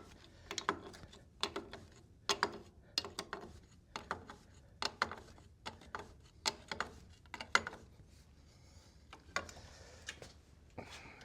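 Hand ratchet wrench clicking in short strokes as a bolt is tightened by hand; the clicks come in clusters and stop about nine and a half seconds in, with the bolt snug.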